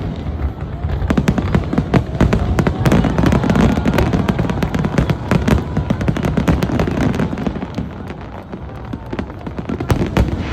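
Aerial fireworks display: a dense barrage of crackling and sharp bangs over continuous low booms, easing off about two-thirds of the way through and picking up again with a few sharp bangs near the end.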